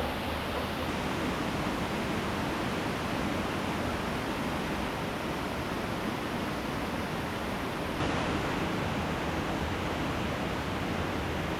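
Steady rush of flowing river water, a constant even hiss with no breaks.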